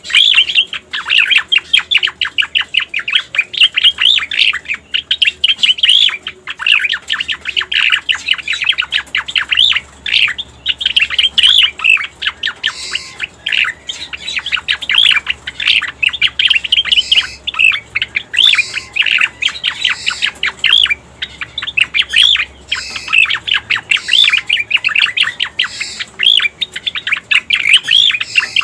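Cica koreng song played as a bird-lure recording: a dense, continuous stream of rapid chirps and trills with only brief pauses.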